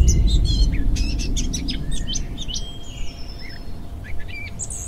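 Small birds chirping: many short, high calls and a brief trill, overlapping. Under them is a low rumble, loudest in the first second and easing after.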